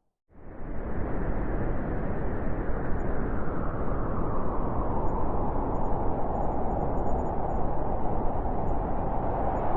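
Blizzard wind blowing hard and steadily, a dense rushing noise that cuts in a moment after a brief silence at the start. A low howl grows a little stronger in the second half.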